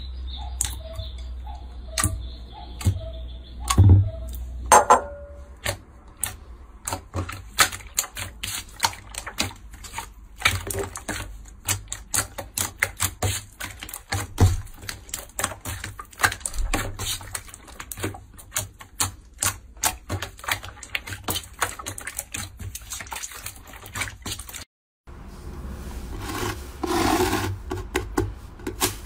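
Slime being squeezed and worked by hand, giving dense runs of quick sticky clicks and pops. A brief gap about 25 seconds in leads into another stretch of squishing, with a wetter squelch near the end.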